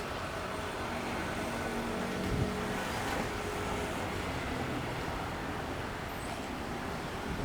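Freight train rolling past at steady speed, a continuous rumble of wagons on the rails with a light knock about two seconds in.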